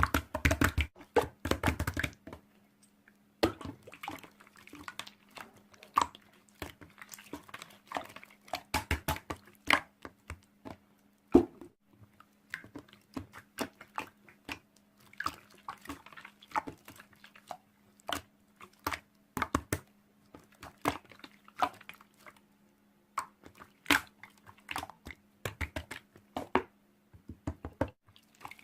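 Slime being squeezed and poked by hand: irregular wet clicks, pops and squishes, several a second in places, over a faint steady hum.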